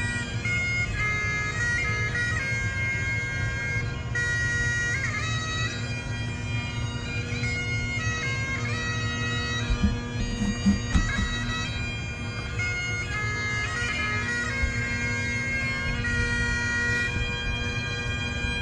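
Bagpipes playing a tune: the chanter's melody moves over steady, unchanging drones, with a few brief low thumps about ten to eleven seconds in.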